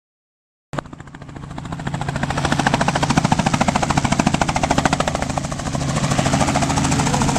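Helicopter running close by: a rapid, steady chop of the rotor blades over the engine's low hum, swelling over the first couple of seconds and then holding steady.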